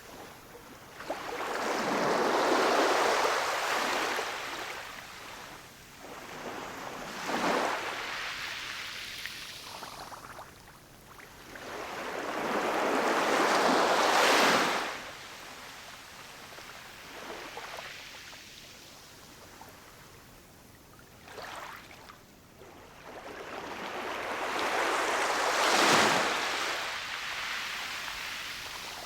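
Ocean waves washing onto a shore: three big waves build and break, each about a dozen seconds apart, with smaller washes between them.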